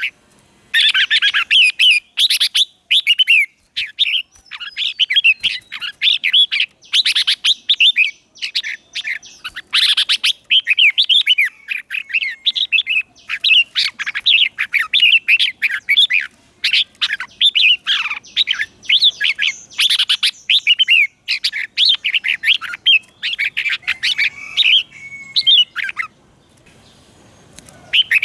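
Red-whiskered bulbul singing: quick, warbling, chirpy phrases repeated almost without a break, the song of a decoy bird used to call in and provoke wild bulbuls. The song pauses briefly near the end.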